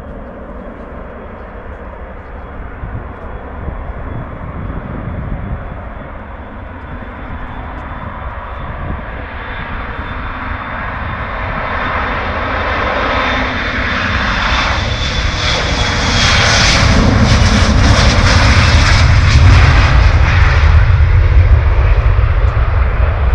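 Airplane taking off: engine roar builds steadily, with a thin high whine in the first half, to its loudest about two-thirds of the way in, then eases a little.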